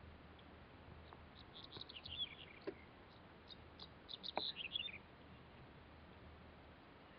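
A small songbird giving high chirps and short falling twitters in two bursts, about two seconds and four and a half seconds in, over a faint steady hiss.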